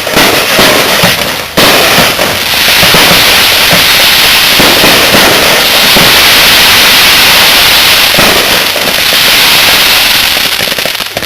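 Fireworks going off in a loud, dense, continuous crackle of rapid small bangs. It jumps louder about one and a half seconds in and eases off near the end.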